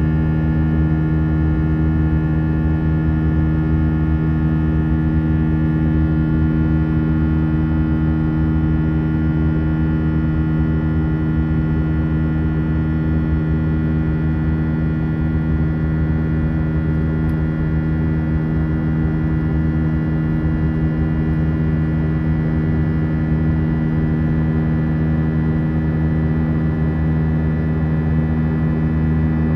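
Steady cabin drone of an Airbus A319 airliner in flight, engine and airflow noise with a constant hum of several tones.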